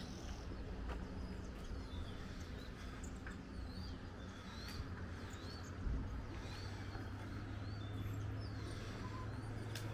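Birds chirping, short high chirps repeated every second or so over a low background hiss. A soft thud about six seconds in, after which a faint steady low hum sets in.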